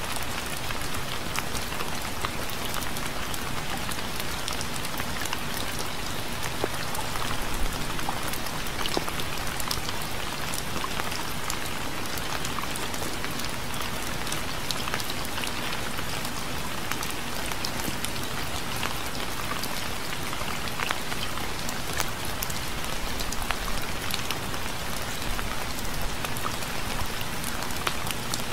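Gentle, steady rain falling on a surface, with many individual drops ticking sharply over the even hiss.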